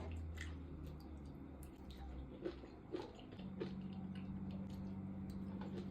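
Quiet eating sounds: small clicks and soft wet mouth noises of chewing, with a few slightly louder clicks in the middle. A low steady hum comes in about halfway through.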